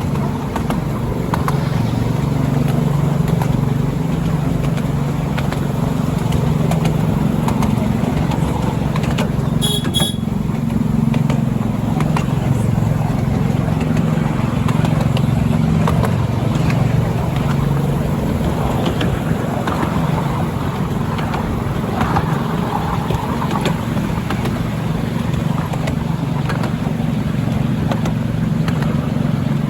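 Steady low running rumble of a moving train, with a brief high-pitched tone about ten seconds in.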